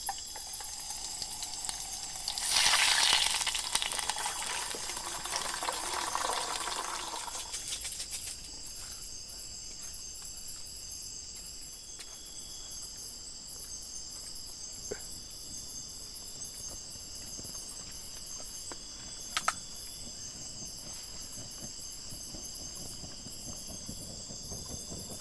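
Food hitting hot oil in a pan: a loud burst of sizzling a couple of seconds in that fades away over several seconds. Insects keep up a steady high-pitched drone throughout.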